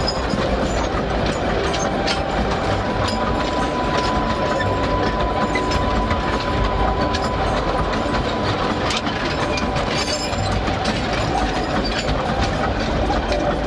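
Narrow-gauge sugarcane train rolling along the line, with wheels clicking over the rail joints and a steady whine through the middle.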